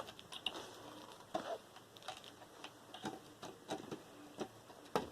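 Irregular small clicks and taps of hand tools and metal parts being worked on a computer motherboard as it is pried apart, with a sharper click near the end.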